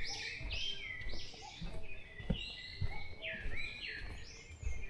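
Wild birds singing in a dawn forest: a steady run of short, high, slurred notes one after another, with a few soft low knocks, the clearest about halfway through.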